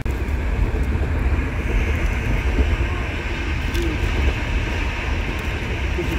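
Steady low rumble of a moving intercity passenger train, heard from inside the carriage.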